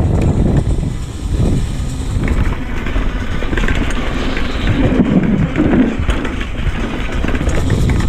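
Retro mountain bike riding down a downhill dirt trail: tyres rolling over dirt and the bike rattling, with rumbling wind on the microphone.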